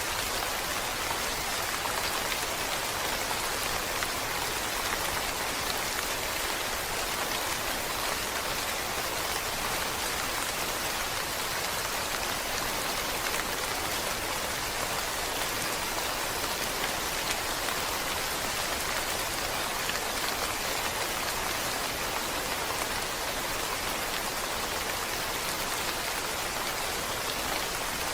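Steady rain falling, an even hiss of countless raindrops without pause or change.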